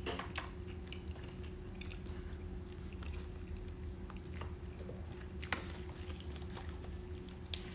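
Close-up chewing of dry boudin, soft and wet, with faint clicks as gloved hands sort crawfish in a foil tray, over a steady low hum.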